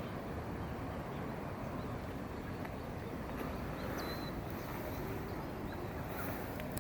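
Steady rushing outdoor background noise, with a faint short high chirp about four seconds in.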